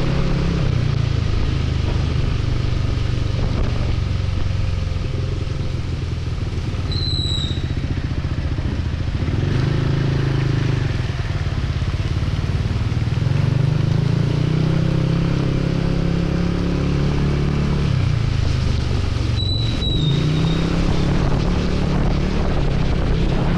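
Motorcycle engine running under way, its pitch rising and falling several times with the throttle, over a steady rush of wind and rain noise. Two brief high chirps sound, one about a third of the way in and one near the end.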